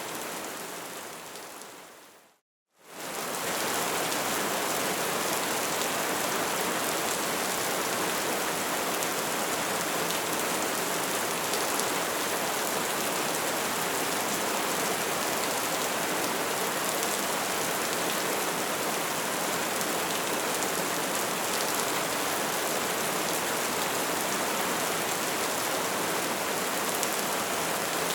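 Crackling bonfire: a dense, steady hiss of burning with small crackles. It fades out to silence about two seconds in and fades back in half a second later, like a loop restarting.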